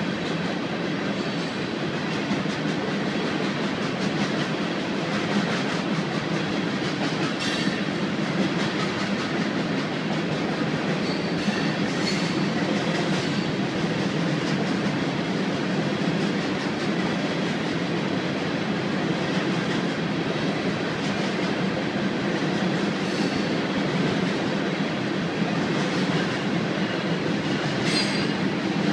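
Herzog ballast train rolling past, a steady rumble with the clickety-clack of wheels over the rails. A few brief, high-pitched wheel squeals rise over it.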